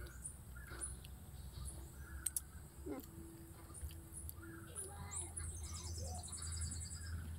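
Birds chirping and calling, with a fast trill of quickly repeated high notes about five seconds in.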